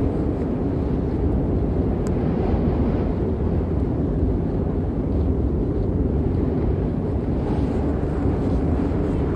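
Snowstorm wind buffeting the microphone: a steady low rumble with no let-up.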